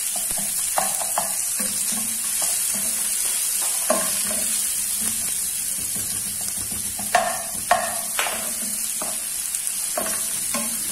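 Sliced onions, garlic and ginger sizzling in hot oil in a frying pan, stirred with a spatula. A steady sizzle runs under irregular scrapes and knocks of the spatula against the pan, the two loudest knocks a little past the middle.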